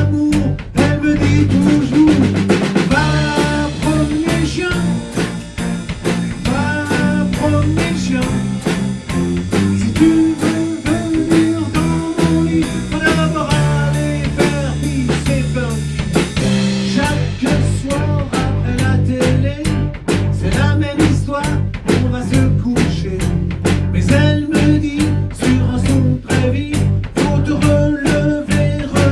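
A band playing an instrumental passage of an upbeat song, a drum kit keeping a steady beat under bass, keyboards and a lead melody.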